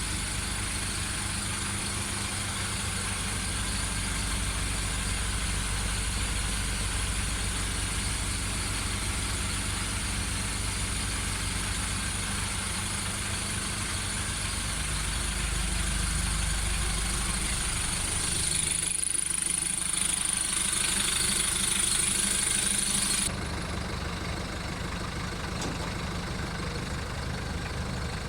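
VW Golf Mk1's 1.9 turbo diesel idling steadily while warming up after five months of storage. A high hiss drops out abruptly near the end.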